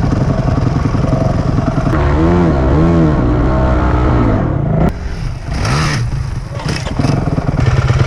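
Honda CRF250X single-cylinder four-stroke dirt bike engine running close by, with a second bike revving up and down in repeated surges as it climbs the hill from about two seconds in, the revs dropping away near the five-second mark before rising briefly again.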